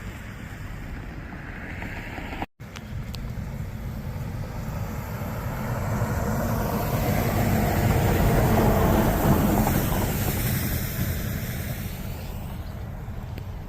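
Heavy thunderstorm rain and wind: a steady rushing noise that swells to its loudest about eight or nine seconds in, then eases off. The sound cuts out briefly about two and a half seconds in.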